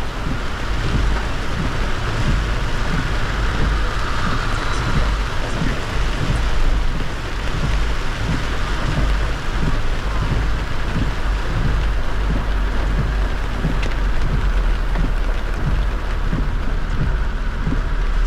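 Heavy rain falling on a moving car on a wet highway, an even hiss over a steady low rumble of tyres and road noise.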